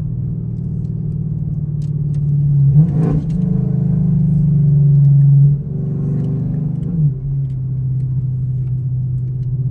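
Chevrolet Camaro SS's 6.2-litre V8 running while driving, a steady low engine note that swells louder twice under throttle and drops back abruptly each time. A short sharp knock about three seconds in.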